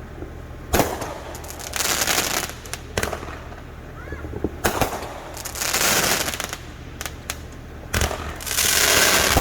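Consumer aerial fireworks going off close by: three sharp bangs a few seconds apart, each followed by a stretch of crackling hiss.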